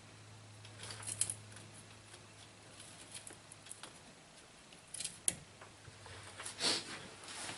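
Light scraping and small metal clicks of a hand tool digging an old O-ring out of its groove in the wheel hub bore, with a longer scrape near the end and a low steady hum underneath.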